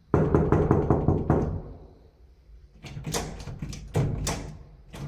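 Knocking on a door: a quick run of about eight knocks in the first second and a half, then a second, sparser group of sharper knocks about three to four and a half seconds in.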